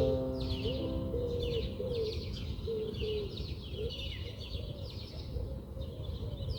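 Birds calling: repeated high, falling chirps about once a second, with lower short rising-and-falling calls in between, over a steady low rumble.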